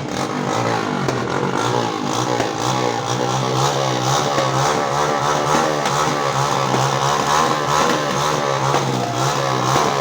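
Motorcycle engine running continuously, its pitch wavering up and down as it revs gently.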